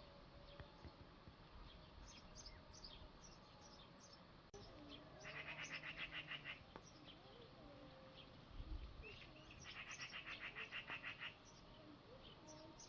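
Small birds calling: two rapid, even trills, each about a second and a half long, one in the middle and one near the end, over faint scattered high chirps.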